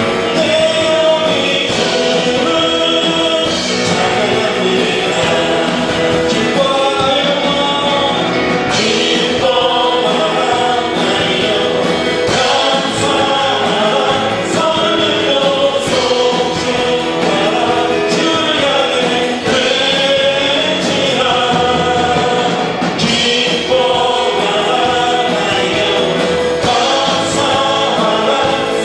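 Voices singing a Christian praise song together, loud and continuous.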